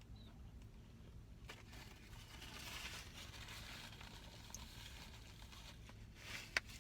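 Faint rustling of paper food packaging and chewing as a bite of bacon omelet bites is eaten, with one sharp click near the end.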